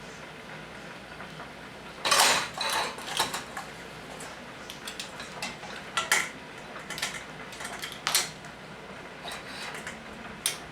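Kitchen utensils and dishes clattering and clinking. There is a burst of clatter about two seconds in, then scattered sharp clinks every second or two.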